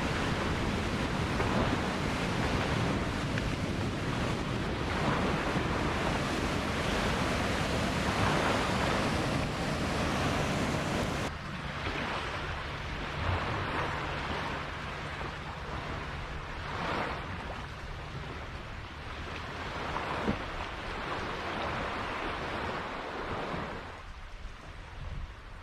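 Ocean surf breaking and washing on a beach, a steady rush of noise. About eleven seconds in the sound turns abruptly duller, and it grows quieter near the end.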